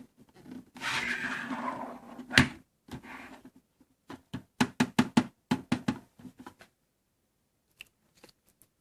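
Handling noise from a small plastic device while a screw is turned out: a scraping rustle with a sharp knock about two and a half seconds in, then a run of quick clicks and taps.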